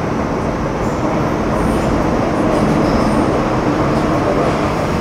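Metro Cammell M-Train electric multiple unit (CT-Stock C212, GEC GTO chopper traction) running between stations, heard from inside the car: a loud, steady rumble of wheels and running gear that swells slightly in the middle.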